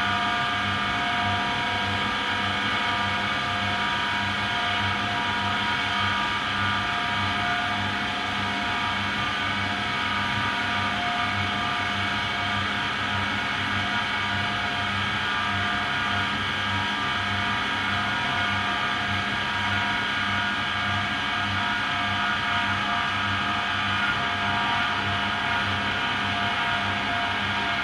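AEG Lavamat Turbo washer-dryer running its cycle: a steady motor whine over a low hum that pulses unevenly.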